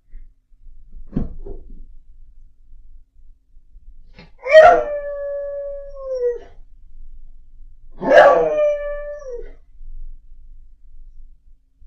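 A dog howling: two long howls a few seconds apart, each holding a steady pitch and then dropping away at the end. A short, brief sound comes about a second in.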